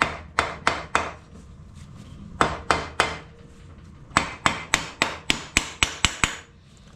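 Hammer tapping on metal parts of a Royal Enfield engine being stripped down, sharp separate knocks. Three taps come at the start and three more about halfway, then a quicker run of about ten taps until shortly before the end.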